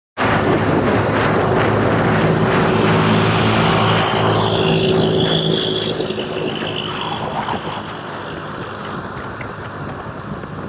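Motorcycle engine running at road speed, with a rush of wind noise over it. It is loudest for the first half and eases down somewhat after about six seconds.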